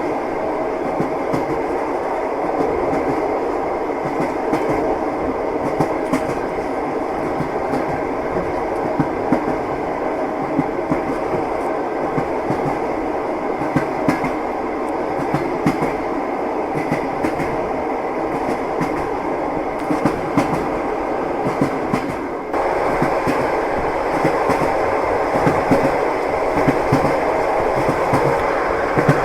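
Passenger train running, heard from inside the carriage: a steady rumble with the irregular clack of the wheels on the rails. About 22 seconds in, the sound briefly drops and then returns a little louder.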